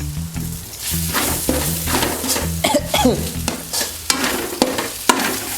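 Chicken curry masala sizzling in a steel pan while a spoon stirs and scrapes it, with sharp clicks of the spoon against the pan, from about a second in.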